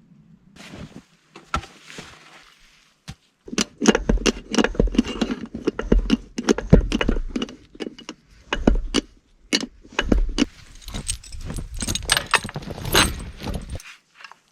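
Metal snow chain being handled and fitted onto a tyre: a dense run of rattling, clinking chain links that starts a few seconds in and stops abruptly near the end.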